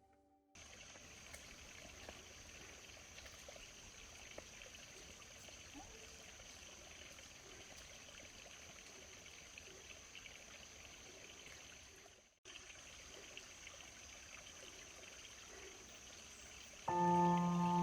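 Faint, steady rush of a small forest stream, with a thin, steady high tone above it. It drops out briefly about twelve seconds in, and soft background music with sustained ringing tones comes in near the end.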